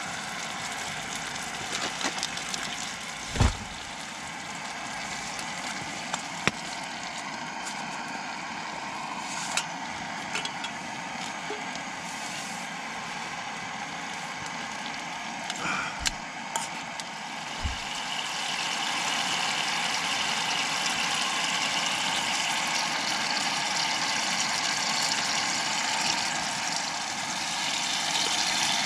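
Small wood fire burning with a steady hiss that grows louder a little past halfway, with a few sharp knocks and pops.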